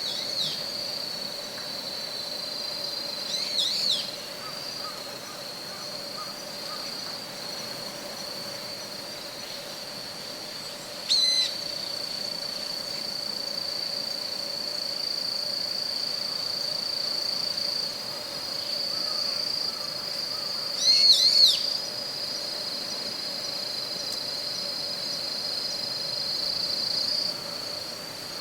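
Woodland ambience: a steady, high-pitched insect trill runs throughout. Short bursts of bird calls cut in three times, a few seconds in, about 11 seconds in and about 21 seconds in.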